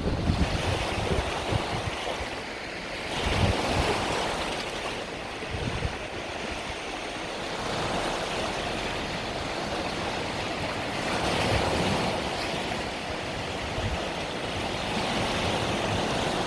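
Mediterranean sea waves breaking and washing on the shore, the surf swelling and easing every few seconds, with wind buffeting the microphone.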